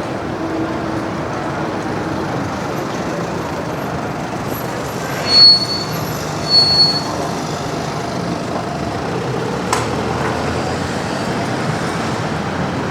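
Busy city street traffic: a steady wash of bus and vehicle noise. About halfway through, two short, loud, high-pitched squeals come a second apart, with a sharp click a few seconds later.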